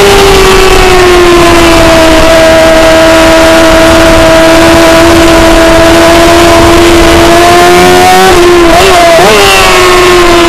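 Racing motorcycle's engine heard from a camera mounted on the bike, running at high revs under heavy wind rush. The note eases down at first and holds steady, flicks up and down twice about eight to nine seconds in, then falls again near the end.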